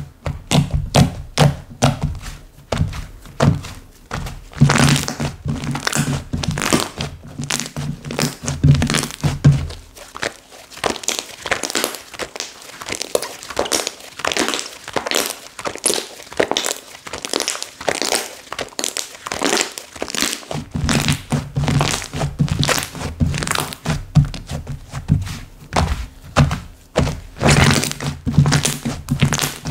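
Slime being squished and pressed by hand, making a dense run of quick clicks and pops with dull thunks. The low thunking drops out from about ten seconds in and returns about twenty seconds in, while the clicking goes on throughout.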